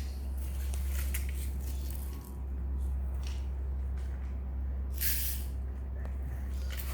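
Uncooked rice grains being scooped and poured, in short hissing spills, the loudest about five seconds in, over a steady low hum.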